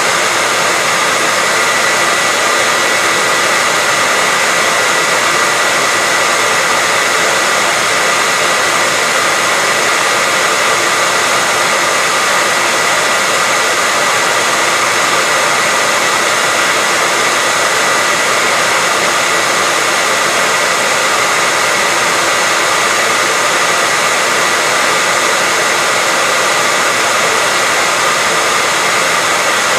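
Hair dryer running steadily: an even rush of blown air with a steady high whine in it, loud and unchanging throughout.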